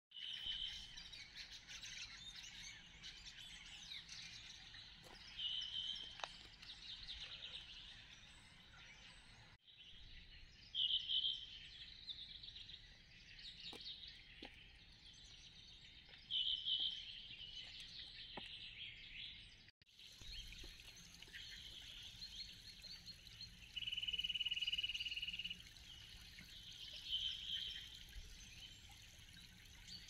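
Woodland birds singing and calling in spring: many short high chirps with a few louder song phrases, and one steady trill lasting about a second and a half past the three-quarter mark. The sound breaks off briefly twice.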